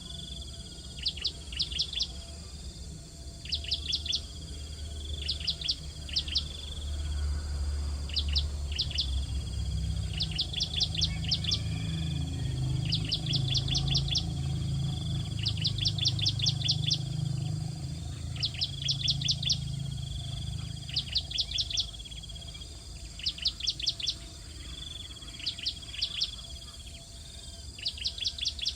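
Bar-winged prinia (ciblek) calling in short bursts of rapid sharp chirps, about one burst every one to two seconds, over a steady high hum. A low rumble swells up in the middle and fades again.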